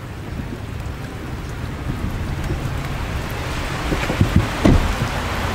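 Steady hiss of rain falling, growing a little louder, with a few dull low thumps about four seconds in.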